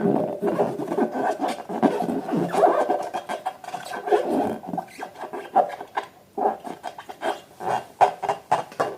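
Rubber balloons and slime being squeezed and rubbed by hand, giving a dense, irregular run of squeaks and squelches.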